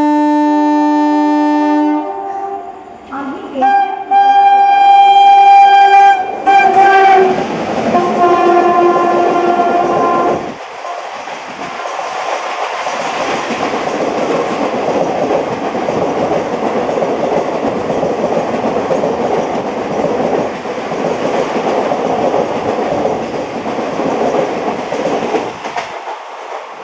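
The horn of a WCAM-3 electric locomotive hauling the Deccan Queen express, a held chord for the first two seconds, then a string of horn blasts of changing pitch over the next several seconds. From about ten seconds in the train runs through at speed, a steady rush of wheels and coaches that carries on to the end.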